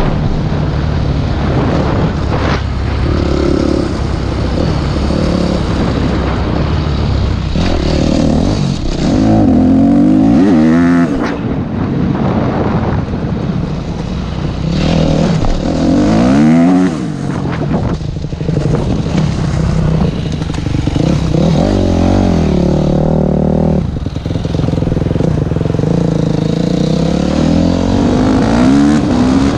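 Yamaha YZF 250 single-cylinder four-stroke dirt bike engine revving hard under throttle. The pitch climbs and breaks off four times, as the revs rise and fall.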